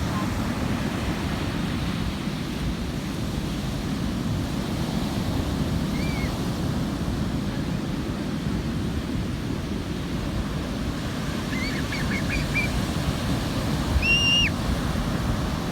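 Ocean surf washing steadily on a beach. A few short, high-pitched calls come through, a quick run of them near the end followed by one louder call.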